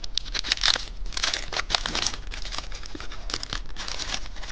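Plastic candy wrapper crinkling and tearing as it is opened by hand: a dense, irregular run of crackles and rustles.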